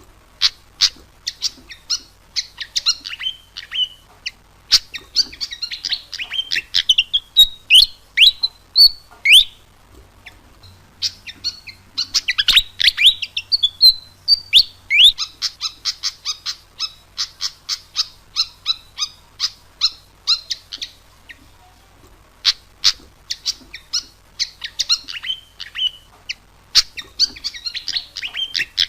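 Malaysian pied fantail singing: rapid runs of sharp chirps and quick down-slurred whistled notes, in loud phrases broken by two short pauses, about a third and three-quarters of the way through.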